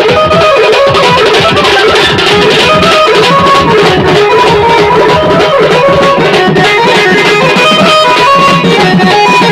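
Loud, amplified band-party music: a fast, steady drum beat under a melody line of quickly changing notes, playing without a break.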